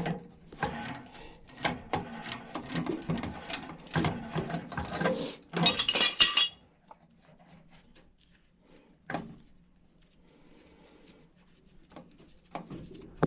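Metal clinking and scraping of hand tools and steel gas pipe fittings being worked, with a loud, high-pitched scrape about six seconds in. After that it goes quiet apart from a single click.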